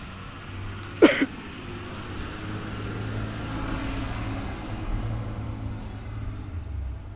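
Chevrolet 230 inline-six engine of a 1964 C10 running, the engine the owner says is misfiring. About a second in, a short, loud squeak falling in pitch stands out over the engine.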